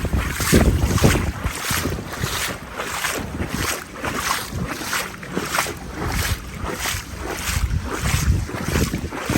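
Steady walking steps through shallow floodwater, each stride a short splash, about two a second, with gusting wind buffeting the microphone.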